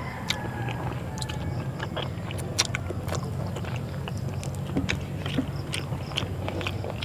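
A person chewing a mouthful of rice and milkfish adobo, with lip smacks and sharp mouth clicks, over a steady low hum.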